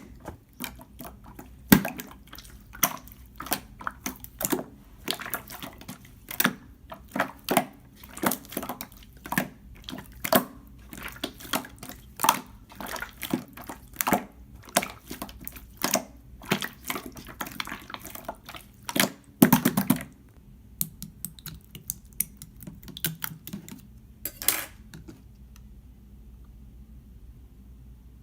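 Clear slime being worked by hand: a rapid run of sticky clicks and wet pops, dense for about twenty seconds, then fewer and fainter with one short louder flurry near the end.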